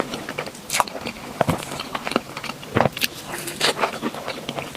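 A person chewing and biting food close to the microphone, an irregular run of short clicks and smacks.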